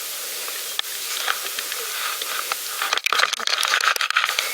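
Steady hiss with scattered small clicks, then a dense burst of crackling from about three seconds in, typical of a pedal bike rolling along a path.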